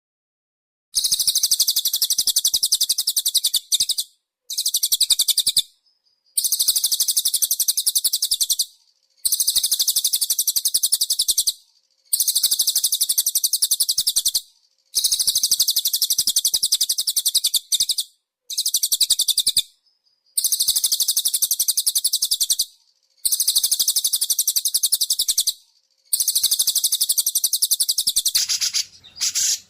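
Recorded songbird song used as a masteran training track: a high-pitched, very rapid chattering trill that comes in about ten bouts of two to three seconds, separated by short pauses. A different bird sound takes over near the end.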